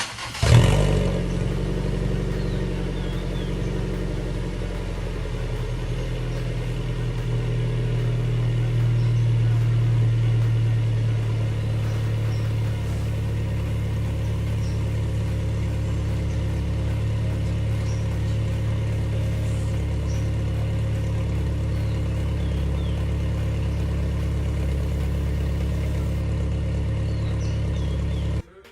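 MG3 engine running through an upgraded exhaust: it starts with a short loud flare, settles to a steady low idle, swells slightly about a third of the way in, then idles evenly until it cuts off abruptly near the end.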